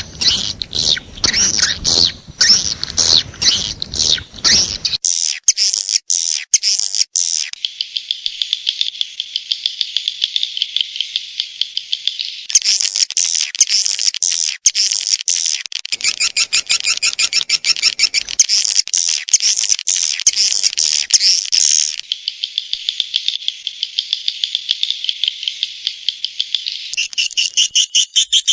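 Swiftlet calling-sound recording: dense, rapid, high-pitched chirping and twittering trills of edible-nest swiftlets, the pattern changing every few seconds. This is the kind of lure sound played to draw swiftlets into a nesting house.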